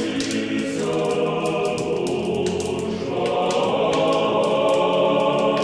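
Background music: a choir singing chant in long, held notes.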